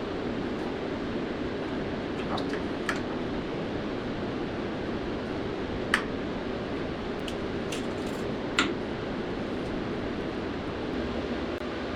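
Steady rushing shop background noise with a few sharp clicks and taps of metal parts being handled. The loudest tap comes about six seconds in, and another about two and a half seconds later.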